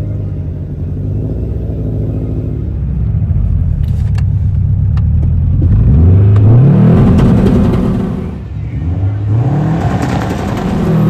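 Turbocharged Subaru Forester flat-four engine running steadily at the start line, then launching hard down a drag strip. The engine note climbs, drops sharply at a gear change about eight seconds in, climbs again, and shifts once more near the end.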